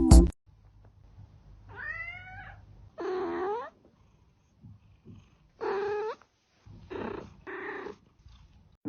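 A cat meowing about five times, each call short with a falling pitch, over a faint low rumble.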